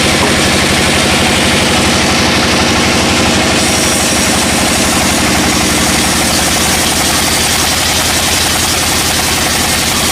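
Engine running steadily at idle with a fast, even pulse.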